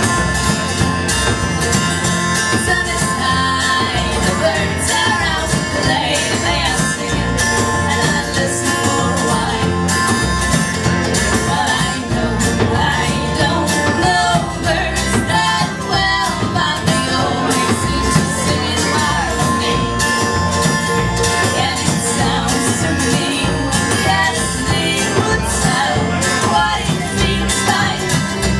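A band playing live, with guitar over a steady beat: an instrumental passage of a pop-rock song.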